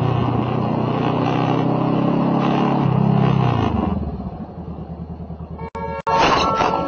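Motorcycle engine running steadily, then easing off and fading as the bike slows about three and a half seconds in. It cuts off abruptly near the end, where a different sound with steady higher tones takes over.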